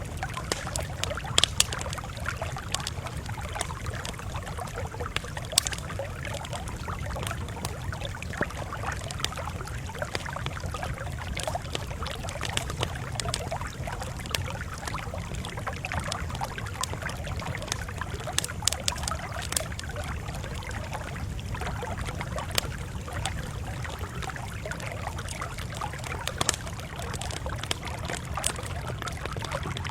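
Campfire crackling steadily, with scattered sharp pops over a constant low rumble.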